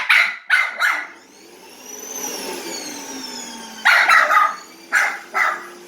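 Jack Russell terrier barking at a vacuum cleaner: a quick run of four barks, then the vacuum motor's whine rising and then sliding down in pitch for a couple of seconds, then another run of barks over a steady hum.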